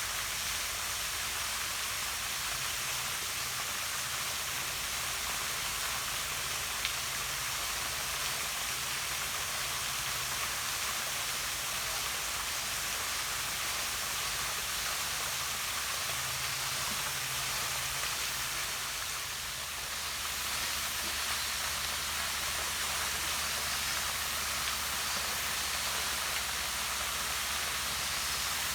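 Small waterfall spilling down rocks into a pond: a steady rush of falling, splashing water.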